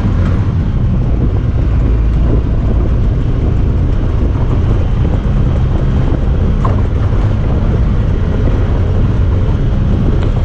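Honda Talon 1000R side-by-side's parallel-twin engine running steadily under way, a loud low drone with road and drivetrain noise on top.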